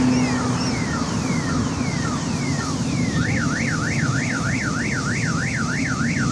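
Car alarm sounding: a run of falling chirps about twice a second, switching about three seconds in to a fast up-and-down warble, over a steady low rumble.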